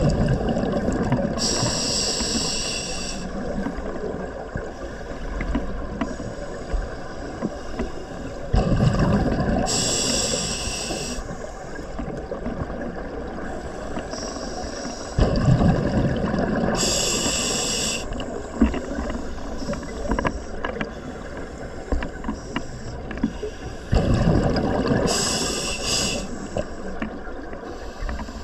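Diver breathing through a scuba regulator underwater: four slow breaths about seven to eight seconds apart, each a low rush of exhaled bubbles paired with the high hiss of air drawn through the regulator.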